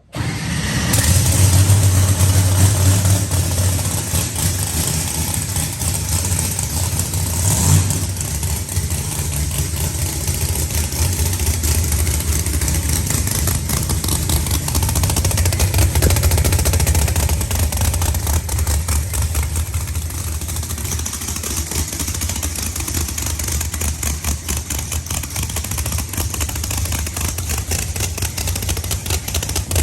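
A loud vehicle engine running with a deep, steady rumble, briefly louder about eight seconds in.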